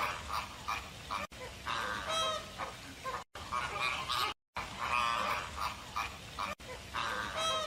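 Waterfowl calling: short, nasal honking calls repeated again and again, broken by abrupt cuts as the same short recording repeats.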